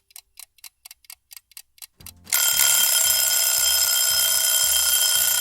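A clock ticks quickly, about four ticks a second. About two seconds in, an alarm clock bell starts ringing loudly and keeps ringing. It is a quiz countdown's time-up signal.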